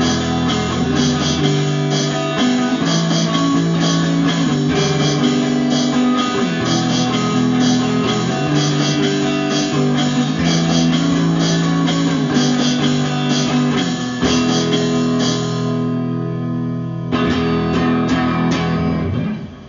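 Instrumental outro of a guitar-led rock song: guitars holding and changing chords over a steady beat. The high end drops out briefly about three-quarters of the way through, and the band stops abruptly near the end.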